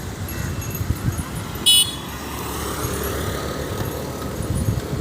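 Road traffic, with vehicles running steadily and a brief high-pitched toot about a second and a half in.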